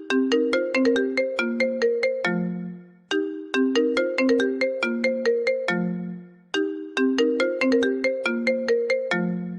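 iPhone ringtone playing: a short melody of quick, sharply struck notes that ends on a held low note, repeating three times, about every three seconds.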